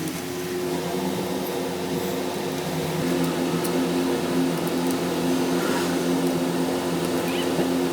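Italjet Griffon GF125 engine running at a steady speed after its clogged carburetor has been cleaned. A smooth, even hum that holds one pitch.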